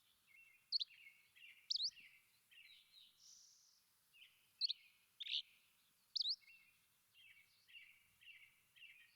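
Songbirds singing: a steady run of short high chirps about twice a second, broken by five louder, sharp upward-sweeping notes.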